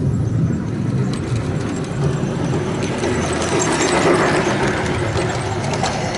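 Outdoor toy train running along its track, a steady rolling, running noise with faint clicks that grows louder as it passes close around four seconds in.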